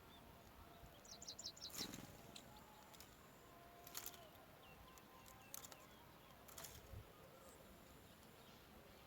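Faint, high-pitched bird chirps, a quick run of about six short notes early on, with a few soft clicks and rustles of movement at the nest scattered through the quiet.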